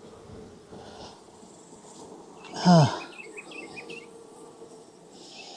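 Honeybees buzzing steadily around an opened hive. About halfway through, a short, loud, falling vocal sound is heard, like a grunt or sigh, followed by a few faint quick chirps.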